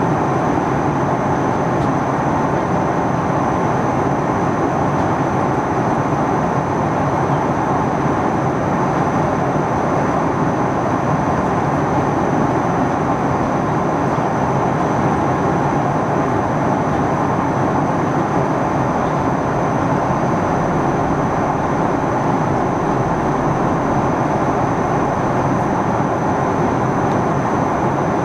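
Steady cabin noise of an Airbus A310-300 airliner in descent: a constant rush of jet engines and airflow heard from inside the cabin, with a thin, steady high whine above it.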